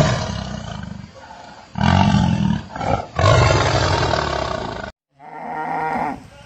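A large animal roaring three times in long, rough calls, followed about five seconds in by a shorter, pitched animal call.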